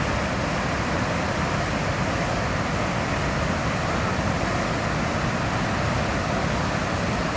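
Steady rush of a large volume of water pouring out into a river.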